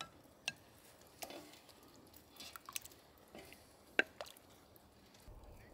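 Quiet eating sounds: a few scattered light clicks of cutlery against a plate, with some chewing.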